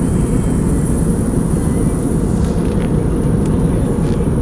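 Steady low rumble of an aeroplane in flight.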